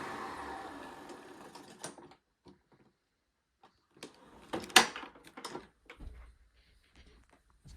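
Hoover Runabout Deluxe vacuum cleaner's motor spinning down, fading away over about two seconds. It is followed by a few short clicks and knocks, the sharpest near the middle.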